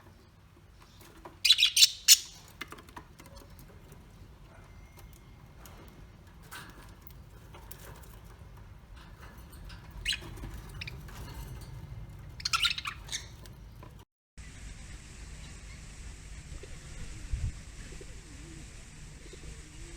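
Birds calling in a few short, high-pitched bursts, the loudest about a second and a half in and more around ten and thirteen seconds. After a brief cut, a steady outdoor hiss with a low rumble, like wind, takes over.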